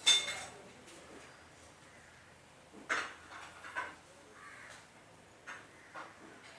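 Metal tools and engine parts clinking and knocking against each other. The loudest clink, ringing briefly, comes right at the start. Another comes about three seconds in, and two light taps come near the end.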